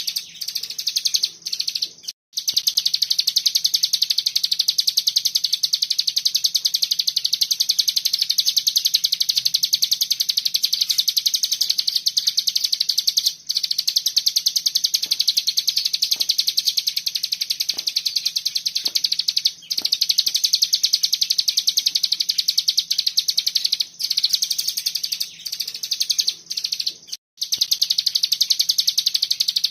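Cigun (ciblek gunung, a mountain prinia) singing a continuous, tight, buzzing 'bren' trill of very rapid high notes, broken by a few brief pauses, with a faint steady hum underneath.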